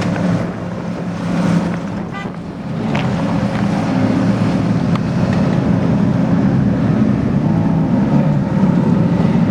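Ferrari sports-car engine running steadily at idle, with a brief dip in level about two seconds in.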